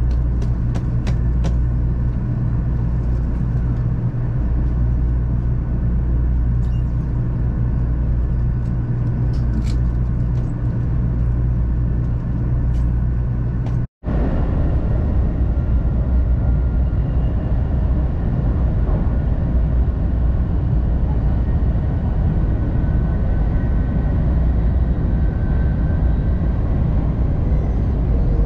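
Steady rumble of a JR West 500 series Shinkansen running at speed, heard from inside the car. A few light clicks come in the first half, the sound cuts out for an instant about halfway through, and faint high whines ride over the rumble afterwards.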